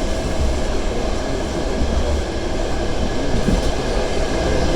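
Passenger train running along the line, heard from inside the carriage: a steady rumble of wheels on rails.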